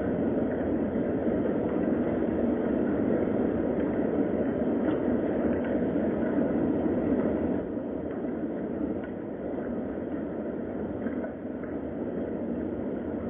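Steady rain ambience, an even wash of noise with a few faint ticks, easing slightly a little over halfway through.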